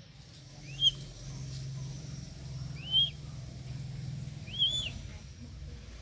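A bird gives three short, high, rising-and-falling calls, the last a double note, over a low steady hum.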